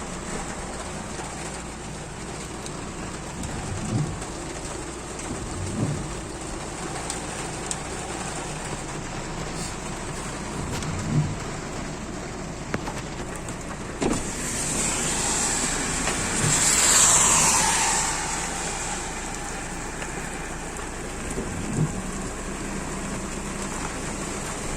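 Steady rain hiss, with a vehicle passing on the wet road that swells and fades about fifteen to eighteen seconds in. A few short dull thumps are heard now and then.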